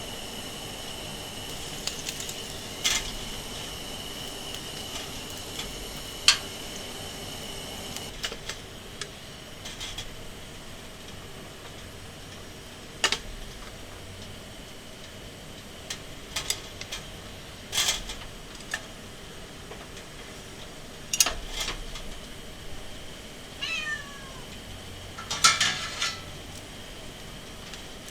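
A domestic cat meows near the end, a short call falling in pitch, with scattered sharp clicks and knocks throughout.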